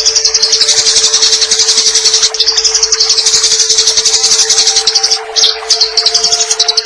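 Eurasian tree sparrows in a fight, chattering in a fast, harsh run of chirps, many a second, breaking off briefly about five seconds in. A steady hum runs beneath.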